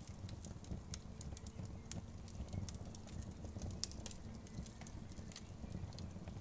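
Wood fire crackling, with irregular sharp pops several times a second and one louder pop about four seconds in, over a low steady rumble.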